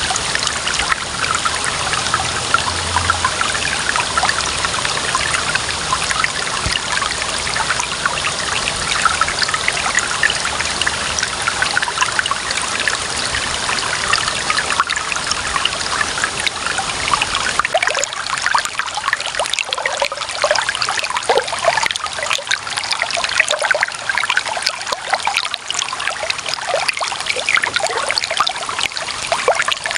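Clear running water trickling and bubbling steadily. A little over halfway through, the deeper part of the sound thins out and the higher splashing carries on.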